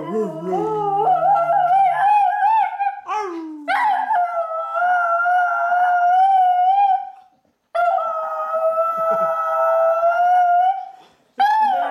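A Chinese crested dog howling ('singing') on cue: three long, wavering howls with short breaks between them.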